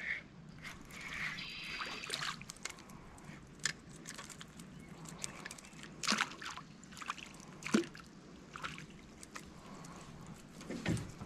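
Water sloshing and trickling around a canoe, with scattered light splashes, knocks and clicks.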